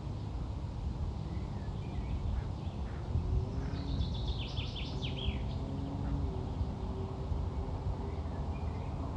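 Steady low wind rumble on the microphone. About four seconds in, a bird sings a quick run of falling high notes lasting a couple of seconds.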